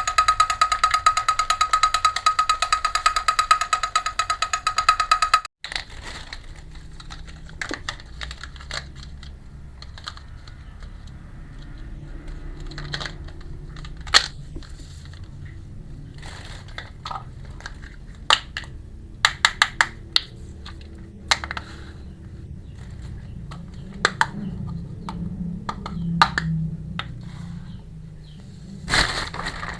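Small plastic clicks and taps of miniature toy kitchen pieces being handled, scattered and sometimes in quick runs. They follow a loud, fast-pulsing tone that cuts off suddenly about five seconds in.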